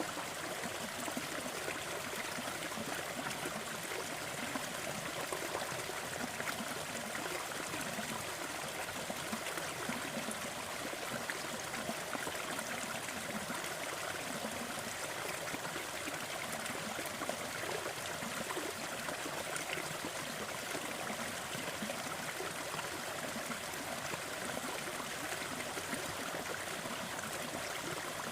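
Steady, even rushing noise, strongest in the upper range and light in the bass, with faint scattered crackles of a log fire under it.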